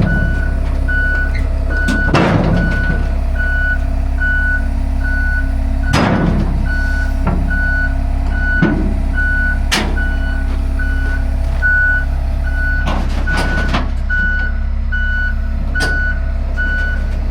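Backup alarm beeping steadily, a little more than once a second, over the low, steady rumble of a diesel engine as the Hitachi 250 excavator is maneuvered on the trailer. A few sharp metal clanks come through, the loudest about two, six and ten seconds in and a pair near thirteen seconds.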